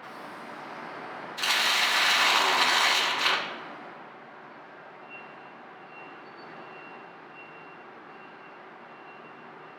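Welding arc from the cobot's torch laying a short tack weld: a loud, even hiss lasting about two seconds that then stops. Afterwards a quiet steady background with a faint high tone as the robot arm moves on.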